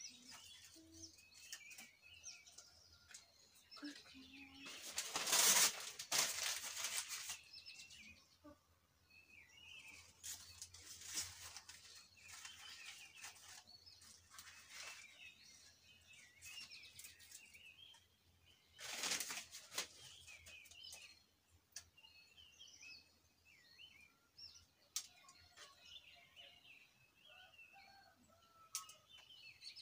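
Small birds chirping and twittering, with two louder stretches of rustling noise, a few seconds long, about five seconds in and again near twenty seconds.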